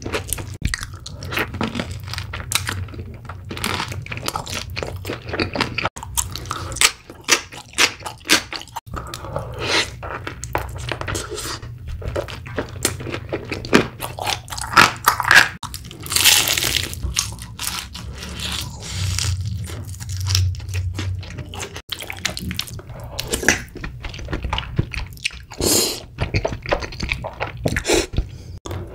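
Close-miked eating sounds: a person biting into and chewing crispy, sauced fried chicken, with many crisp crunches in quick succession.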